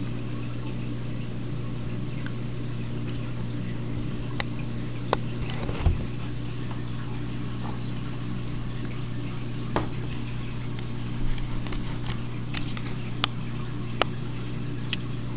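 Steady low hum with a faint hiss behind it, broken by scattered short clicks and a soft thump about six seconds in.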